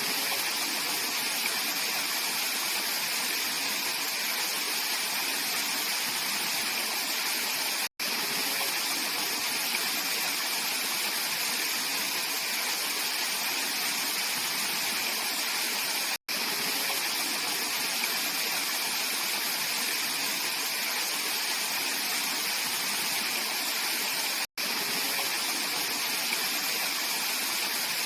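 Mountain stream water rushing steadily over rocks, with a steady hiss. The sound drops out for a split second about every eight seconds.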